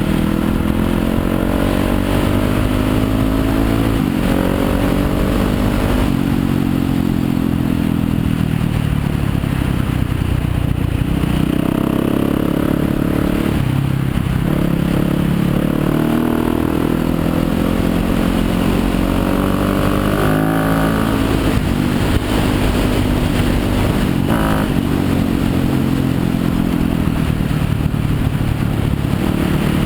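Yamaha YZ250FX dirt bike's 250cc four-stroke single-cylinder engine running hard on a trail ride, its pitch rising and falling again and again as the throttle is opened and eased off.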